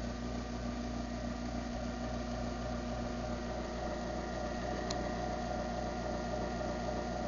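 Craftsman half-horsepower garage door opener motor running steadily through its opening cycle, a constant mechanical hum. A faint tick comes about five seconds in.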